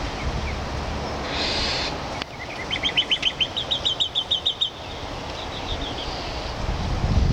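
Northern mockingbird singing: a short harsh, raspy note, then a fast run of sharp repeated chirps, about six a second, that grows fainter near the end.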